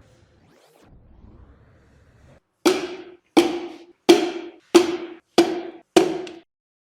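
Six evenly spaced percussive hits, each a sharp strike with a short pitched ring that dies away quickly, starting a little over two seconds in.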